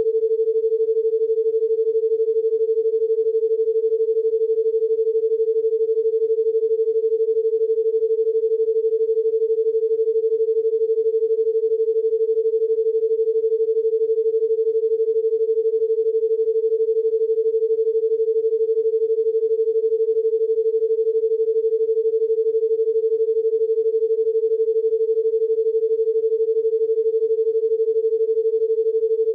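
Steady electronic pure tone held at one unchanging pitch, a 'healing frequency' tone, starting abruptly after a moment of silence.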